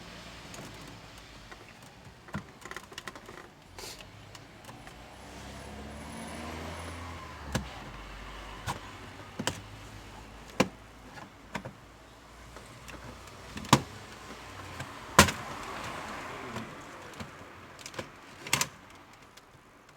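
Plastic dashboard trim cover of a Hyundai Tucson being pried off and handled: a series of sharp, irregularly spaced clicks and snaps from the plastic and its retaining clips, over a faint steady background hum.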